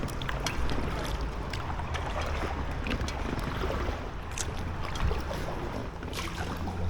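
Paddle strokes and water splashing around an inflatable kayak, with small drips and splashes scattered through, over a steady low rumble.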